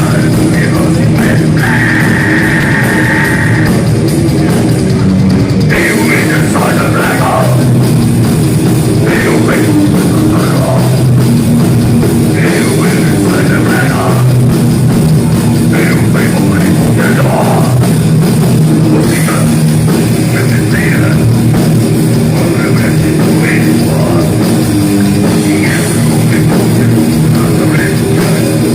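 Heavy metal band playing loud and without a break: distorted electric guitars over a drum kit.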